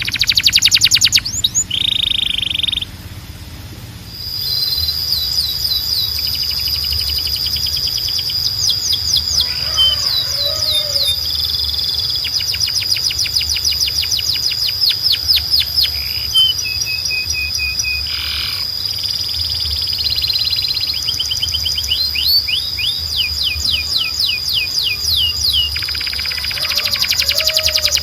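Canary singing: fast trills of repeated sweeping notes and rattling rolls over a long, steady high whistle held through most of the song.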